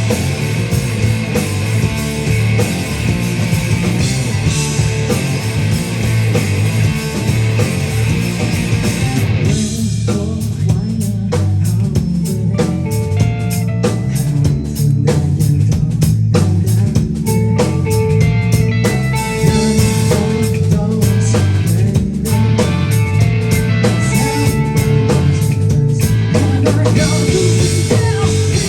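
Loud rock music with electric guitar and a drum kit, played at a live performance. About ten seconds in, the dense top end drops away, leaving sharper drum hits; a long held note sounds over the second half.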